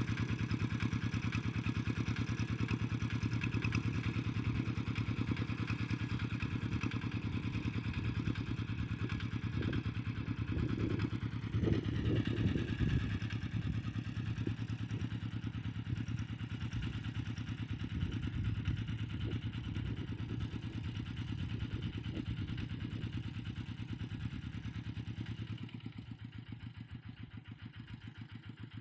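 Tractor engine running steadily under load while ploughing, with a louder, rougher stretch about halfway through; it fades away near the end.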